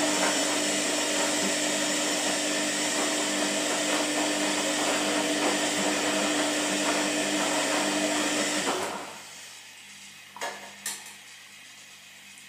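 Washing machine running with a loud whirring rush and a steady hum, which cuts off about nine seconds in. Two short clicks follow, over a faint low hum.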